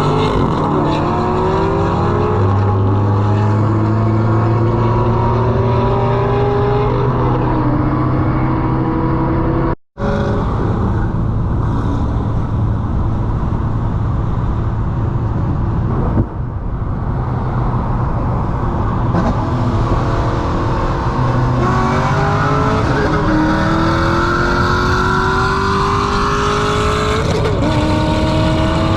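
Turbocharged four-cylinder engine of a Volkswagen Mk7 GTI accelerating hard through the gears, its pitch climbing steadily and dropping back at each upshift. The sound cuts out briefly about ten seconds in, then another pull follows with two more quick upshifts near the end.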